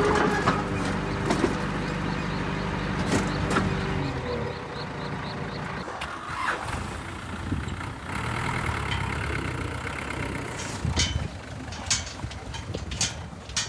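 Diesel engine of heavy earthmoving machinery running steadily, fading away after about four seconds, then several sharp clanks and knocks near the end.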